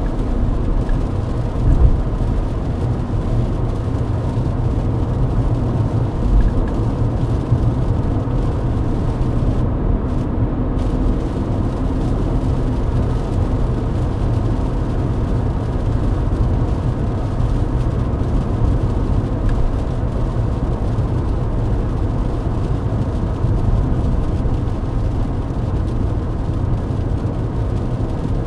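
Inside the cabin of a Mercedes-Benz W124 cruising at highway speed in the rain: a steady low rumble of engine, tyres and road noise.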